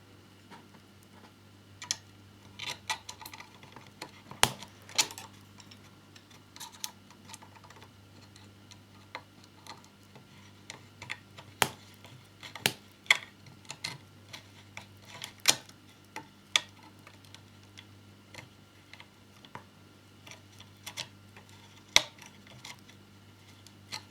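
Small screws, a small screwdriver and model parts being handled: irregular light clicks and taps, some sharper than others, spread unevenly over a faint steady low hum.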